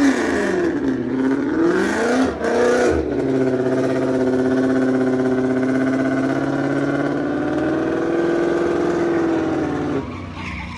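Car engine revved hard in several up-and-down blips, then held at high, steady revs for about seven seconds before dropping off about ten seconds in.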